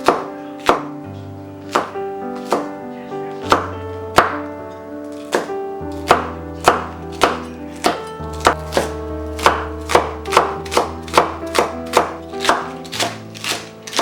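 Knife chopping on a cutting board, over background music. The cuts come about once a second at first, then speed up to about three a second for the second half.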